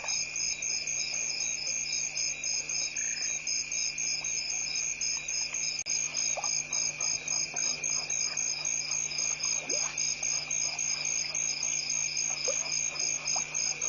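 Crickets chirping in a steady chorus: a continuous high trill under an evenly pulsing chirp, with a few faint short calls lower down.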